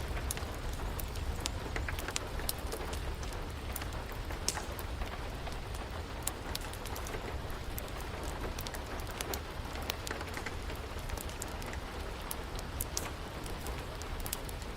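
Steady rain hissing together with a crackling wood fire: an even wash of rain under frequent, irregular sharp pops and crackles.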